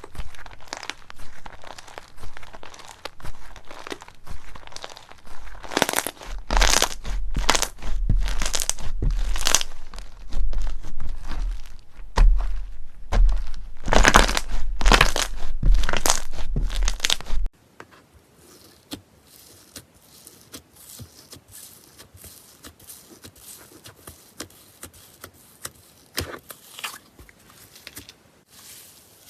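Slime being squeezed and pressed by hand close to the microphone, with loud crackling, crunching bursts. About seventeen seconds in it cuts abruptly to a much quieter clip of soft, scattered pops and clicks.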